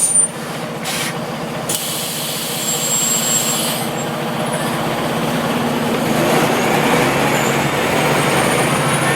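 Scania OmniLink CL94UB city bus: compressed air hisses for the first few seconds, then the engine grows louder and rises in pitch as the bus pulls away.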